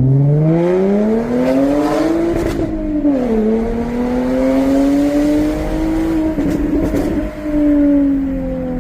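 Jaguar F-Type's supercharged 3.0 V6 accelerating hard through a straight-through stainless exhaust with no rear silencer and no valves. The revs climb for about two and a half seconds, drop sharply at an upshift about three seconds in, climb again more slowly, then ease off near the end with a brief rough crackle.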